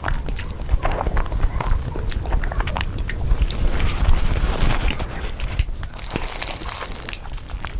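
Close-miked eating: chewing and biting with many small crunches and wet mouth clicks.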